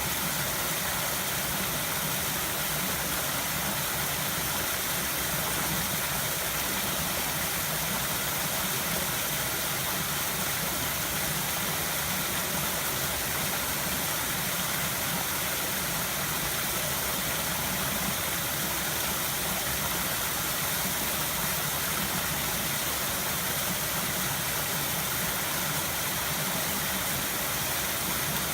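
River water flowing over stones, a steady even rush with no breaks.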